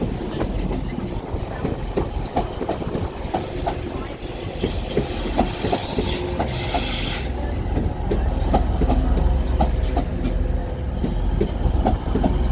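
Trains moving slowly through a station, steel wheels clicking repeatedly over rail joints and points. About five seconds in there is a hiss lasting around two seconds, and a low rumble builds after about eight seconds.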